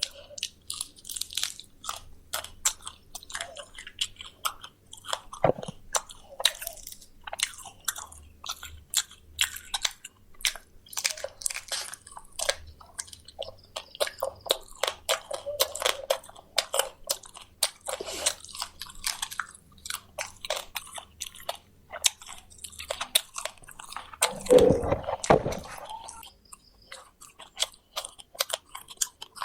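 Close-up chewing and crunching of fried quail bones, a steady run of crisp cracks, with a brief louder low sound near the end.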